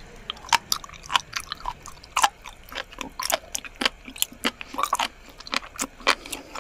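Close-miked mukbang chewing of raw spoon worm (gaebul): a quick, irregular run of sharp mouth clicks and smacks, several a second.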